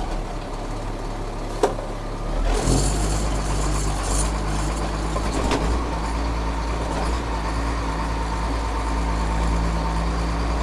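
Caterpillar diesel engine of a 2001 Freightliner FL70 truck running steadily. A sharp click comes about a second and a half in; about a second later a hiss starts and lasts a couple of seconds, while the engine's low note grows louder and stays steady.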